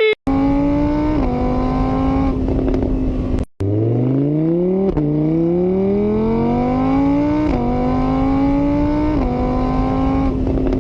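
Vehicle engine accelerating through the gears: the engine note climbs in pitch, drops suddenly at each gear change and climbs again, four times or so, with a short break about three and a half seconds in.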